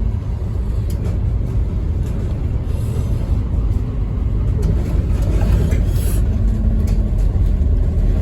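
Cabin sound of a 2008 Scania N230UD OmniCity double-decker bus under way: its five-cylinder diesel engine and running gear give a steady low rumble.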